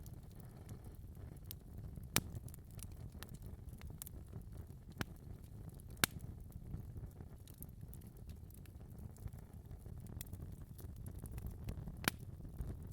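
Wood fire in a fireplace crackling: a low steady rumble of flames with scattered sharp pops, three of them louder about two, six and twelve seconds in.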